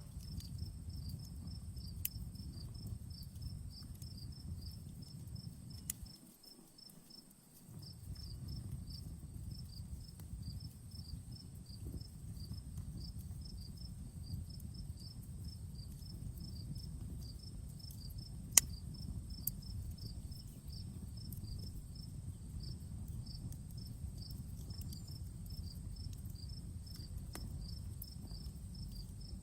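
Campfire crackling with a few sharp pops, the loudest about two-thirds of the way through, over a low rumble. Behind it, crickets chirp in a steady pulsing rhythm.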